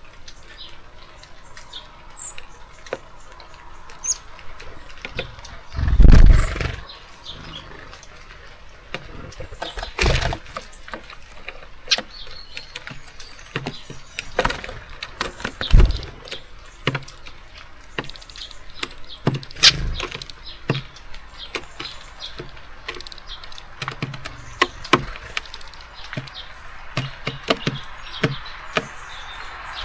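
Small birds working a seed feeder close to the microphone: many sharp taps and clicks of feet and beaks on the feeder, a heavy thump about six seconds in and a few smaller knocks later, with a few faint chirps.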